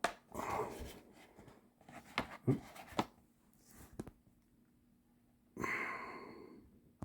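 Handling noise from a vintage 12-inch Star Wars figure box and its packaging: scattered light taps and clicks, with short rustles near the start and a longer rustle or breathy swell near the end.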